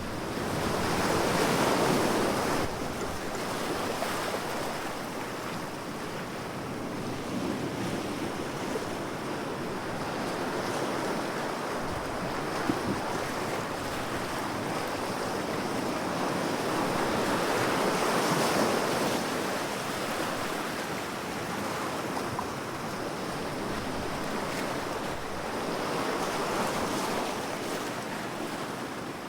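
Ocean waves breaking and washing on a shore, the surf swelling and ebbing in slow surges about every eight to ten seconds, with some wind on the microphone.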